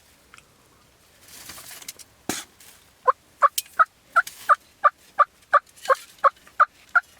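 A long, even series of turkey yelps, about three a second, each note breaking from a higher to a lower pitch, starting about three seconds in. A single sharp knock comes just before the yelps.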